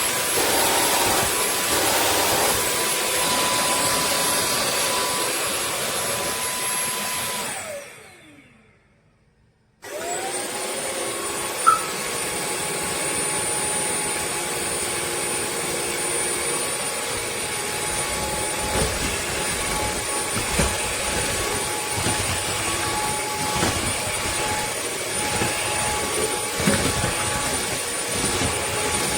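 Wet-dry floor vacuum running with a steady motor whine. About eight seconds in it is switched off and the whine falls away to silence; about two seconds later it is switched back on, and the whine rises and runs steadily again.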